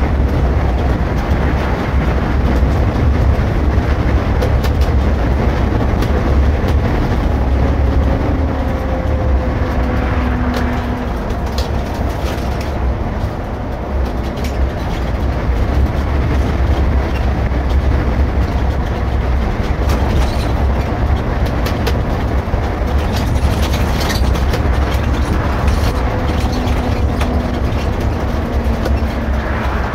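Irisbus Récréo II coach under way, heard from the driver's seat: a steady low engine and road rumble, with faint tones that slowly slide in pitch now and then.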